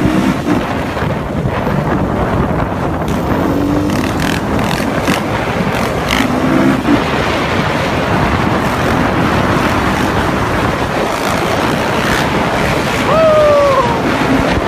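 Heavy wind rumble on the microphone over street dirt bikes running. A short falling tone comes near the end.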